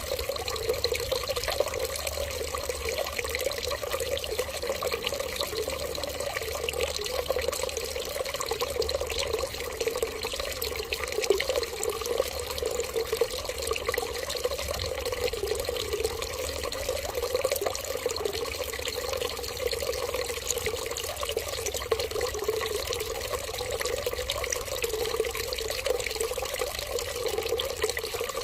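Running water in a steady, continuous trickling stream, with a fluttering mid-pitched splash that never stops or changes.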